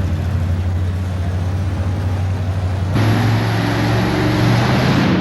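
Big multi-engine modified pulling tractor's engines running with a steady low drone, then suddenly louder and higher in pitch about three seconds in.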